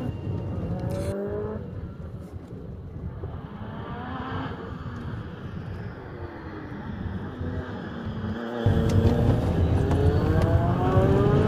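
Car engine accelerating hard, its pitch rising again and again as it works up through the gears, with steady road noise, heard from inside the cabin. It gets louder and busier after an abrupt cut about eight and a half seconds in.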